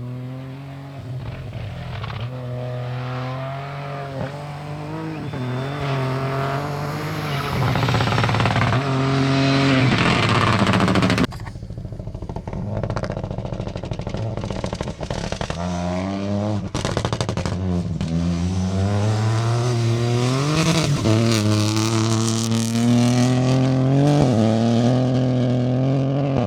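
Peugeot 208 Rally4 rally car's three-cylinder turbo engine accelerating hard, its pitch climbing and dropping back at each gear change. About eleven seconds in it lifts off and goes quieter, then pulls up through the gears again.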